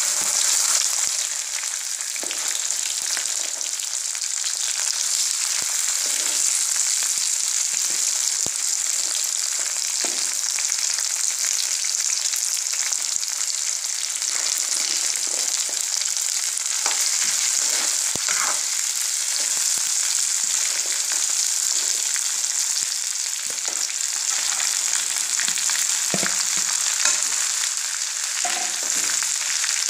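Freshly added chopped okra sizzling steadily in hot oil in a kadai, with a steel spoon scraping and clicking now and then as it is stirred.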